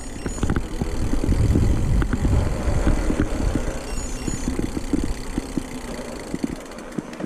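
Mountain bike rolling over a rough forest trail: a steady low rumble with many small knocks and rattles from the bike, easing off near the end.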